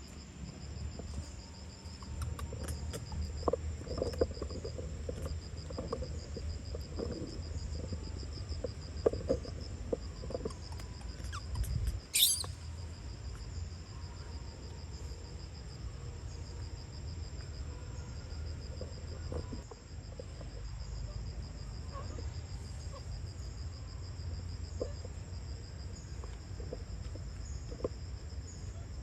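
Insects, crickets or similar, chirping in a steady fast high pulsing trill, over a low rumble and scattered soft knocks. A brief sharp high sound cuts through about twelve seconds in.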